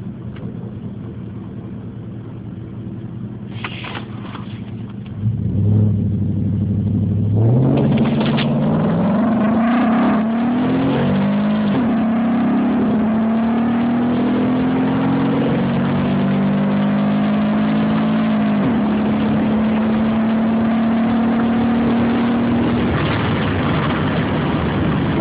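Chevrolet TrailBlazer SS's 6.0-litre LS2 V8, breathing through a K&N intake and a cat-back exhaust, idles, then goes to full throttle about five seconds in. The engine note climbs and drops back at each upshift, then holds steady near the end.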